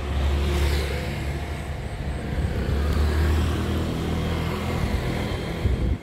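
A motor vehicle's engine running close by as road traffic, a steady low rumble.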